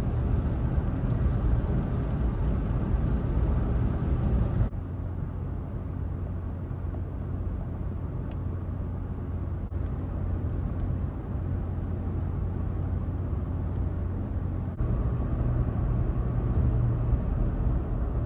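Steady low rumble of a vehicle running on the road, broken by two abrupt cuts where the sound changes character.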